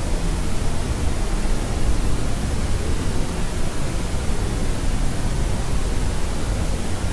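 Steady sleep-aid white noise, a constant even hiss heavier in the low end than the top, with no change or break.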